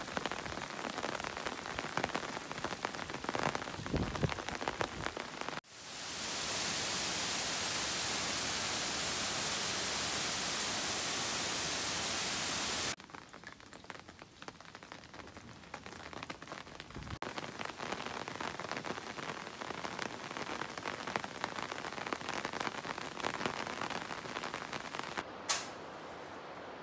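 Heavy rain, with dense drops pattering, then a steady even hiss of downpour in the middle, then pattering drops again. The sound changes abruptly between these sections. There is a single sharp click near the end.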